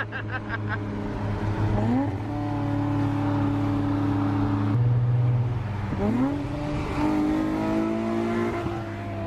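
Car engine pulling under throttle: its pitch climbs twice, about two seconds in and again about six seconds in, each time levelling off into a steady drone over a constant low hum.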